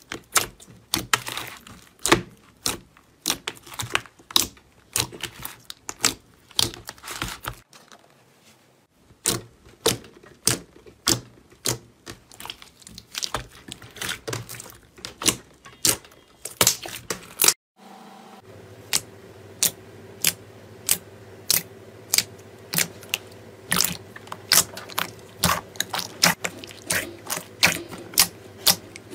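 Slime being pressed and poked by hands, giving a steady run of sharp clicking pops, about two or three a second. Partway through, the pops continue over a steady low hum.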